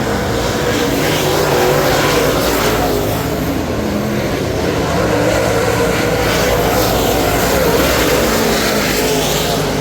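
The car's Ford 422 cubic-inch racing engine running hard at speed, its pitch rising and falling as the throttle comes on and off.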